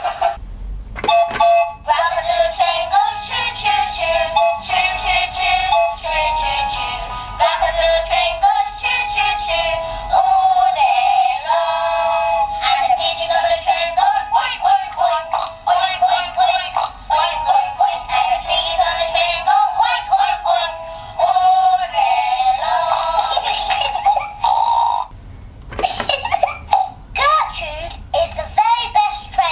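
A Peppa Pig Grandpa Pig's Train toy plays its electronic sung tune. The sound is thin, with no high end, as from a toy's sound chip. The song stops about 25 seconds in, and brief voice-like sounds follow.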